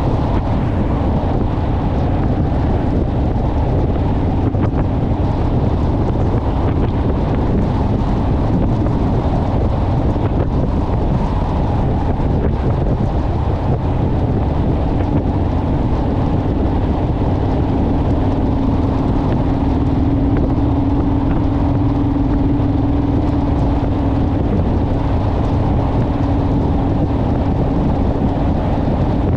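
Motorcycle engine running steadily at road speed with a constant low hum, under heavy wind rush on the microphone. The hum grows a little stronger through the middle stretch.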